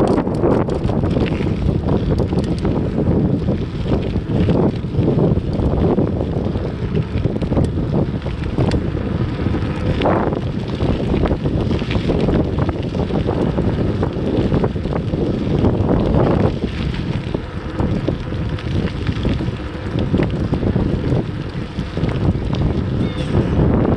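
Wind buffeting the microphone of a camera riding along on a moving bicycle, a steady low rumble with scattered small clicks and rattles.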